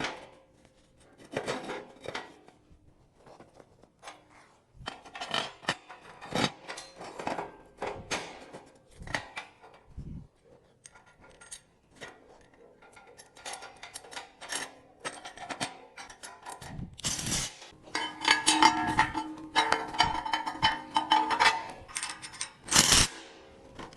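Sheet-steel parts knocking, clinking and scraping against each other as small side pieces are fitted onto a steel welding-table frame, with a few seconds of ringing metal a little past the middle and louder clanks near the end.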